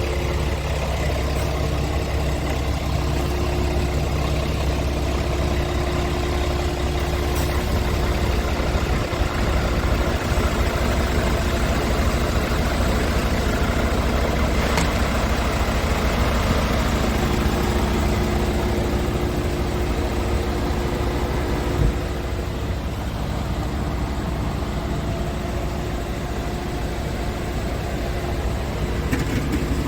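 Scania R tractor unit's engine running steadily, with a low, even drone. A click comes about two-thirds of the way through, and the engine is a little quieter after it.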